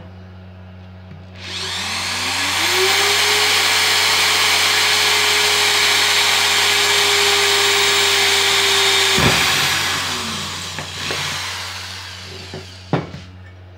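Bosch GSR 7-14 E corded drill/driver spinning up about a second in and drilling through 18-gauge steel rectangular tubing: a steady motor whine with loud cutting noise for about seven seconds, then the motor stops and winds down. A sharp click near the end.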